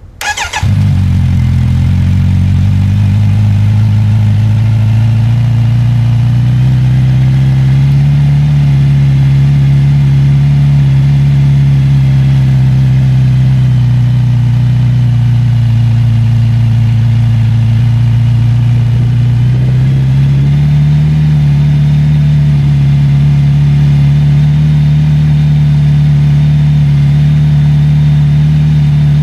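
Kawasaki Z900RS 50th Anniversary's inline-four engine starting right at the beginning, then running at a steady cold idle while it warms up; the idle speed rises a little about twenty seconds in.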